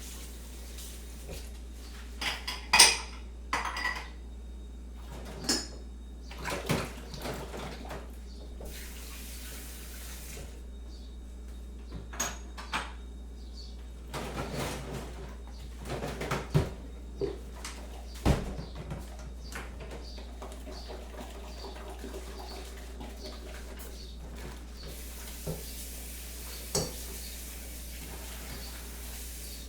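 Crockery and cutlery clinking and knocking at irregular moments as dishes are handled, over a steady low hum.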